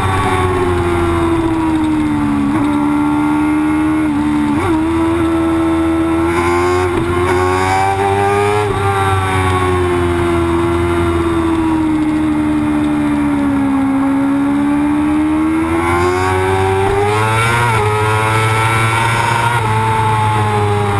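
Race motorcycle engine running hard at high revs, heard from a camera mounted on the bike. Its pitch rises and falls with the throttle through the corners, with a brief sharp blip about four and a half seconds in, over a steady wind rush.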